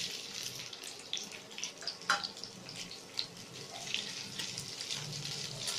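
Sliced bitter gourd frying in hot mustard oil in a steel kadhai: a steady sizzle dotted with crackles and pops, with a few sharper clicks as the slices are stirred.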